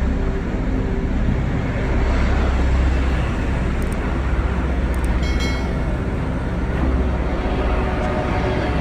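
Steady low engine rumble with a broad, even noisy wash over it, and a brief high tone about five seconds in.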